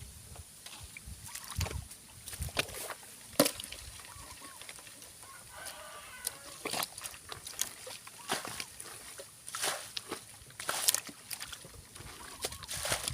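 Scattered splashes and knocks of someone working in shallow paddy-field water, the sharpest about three and a half seconds in, with a rooster crowing in the background about six seconds in.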